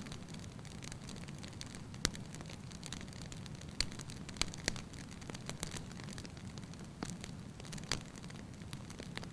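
Wood fire burning in a fireplace: a steady low rumble of flame with scattered sharp crackles and pops, about five distinct ones and smaller ticks between them.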